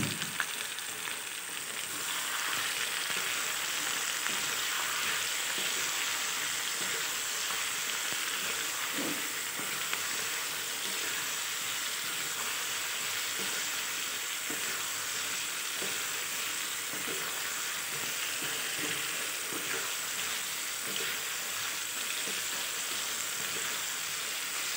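Chunks of ash gourd frying in oil in an iron kadai: a steady sizzle, with a wooden spatula stirring them now and then.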